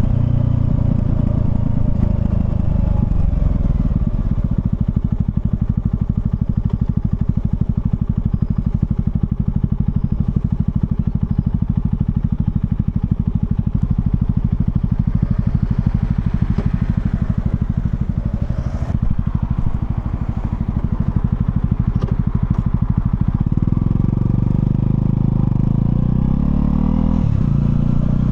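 Honda CL250's single-cylinder engine running steadily at low revs with an even, rapid pulse. About two-thirds of the way through, the revs climb in steps as the bike accelerates.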